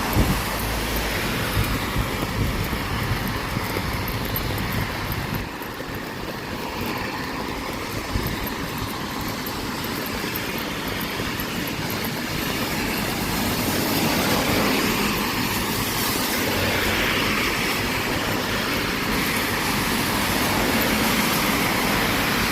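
Steady rain, an even hiss with a low rumble underneath that dips a few seconds in and slowly swells again.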